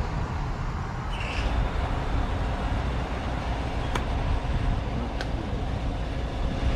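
Steady low rumble of passing street traffic, with a short hiss about a second in and two sharp clicks later on.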